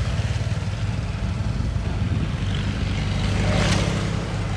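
Heavy construction machine's diesel engine running steadily with a deep hum, and a short hiss about three and a half seconds in.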